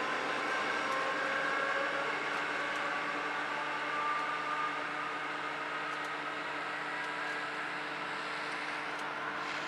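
Passenger train receding: a steady running hum with thin whining tones above it, slowly fading as the train draws away.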